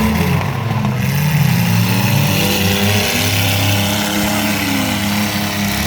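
Several mini-truck engines racing at once, their pitch rising and falling as they rev up and ease off.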